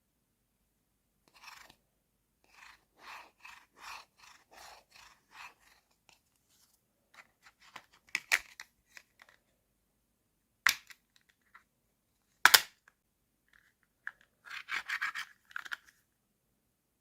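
Hands handling a toy and its plastic packaging: a run of about six short scratchy rubbing strokes, then three sharp separate clicks, the third the loudest, then a short burst of rustling near the end.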